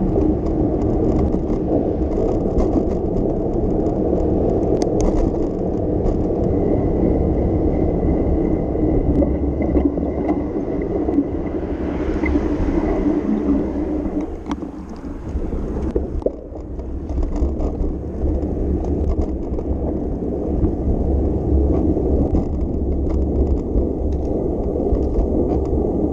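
Steady rumble of a bicycle riding over city pavement: tyre and road noise with small rattles and clicks. It eases off briefly a little past the middle, then picks up again.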